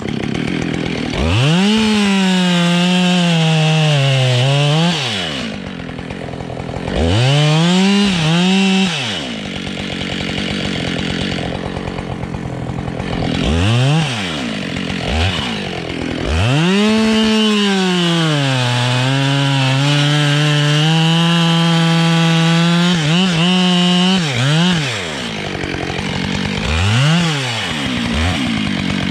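Husqvarna 572 XPG two-stroke chainsaw revving up and cutting beech, its engine note sagging under load in each cut and dropping back to idle between cuts. Two cuts of a few seconds, a quick blip of the throttle, then one long cut of about eight seconds and another blip near the end.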